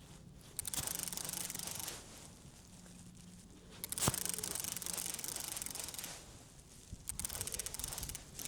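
Fishing reel being cranked in three spells of rapid whirring clicks, a fish being reeled in to the boat. A sharp click comes about four seconds in.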